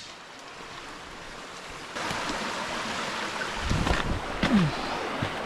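Rushing stream water, getting louder about two seconds in, with a few low knocks around four seconds in.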